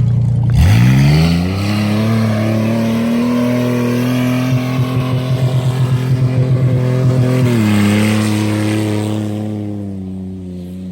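Car engine revving up sharply and held at high rpm, with a stretch where the sound pulses several times a second, then dropping slightly in pitch and fading toward the end.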